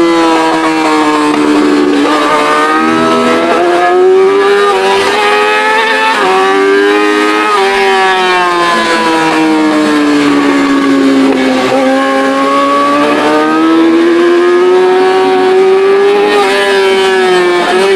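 Yamaha R6's straight-piped inline-four engine, recorded on the bike, its pitch rising and falling over several seconds as the throttle opens and closes, with a few abrupt jumps in pitch along the way.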